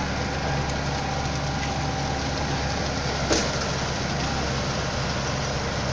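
Diesel engines of a concrete pump truck and mixer truck running steadily, with one sharp knock about halfway through.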